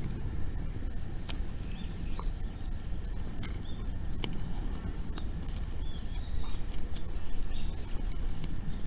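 Bonfire of dry wood crackling: scattered sharp pops over a steady low rumble, with a few short bird chirps.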